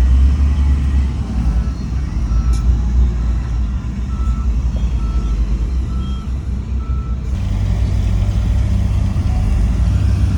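Diesel heavy equipment running, with a reversing alarm beeping about twice a second for several seconds before it stops; the engine note changes after the beeping ends.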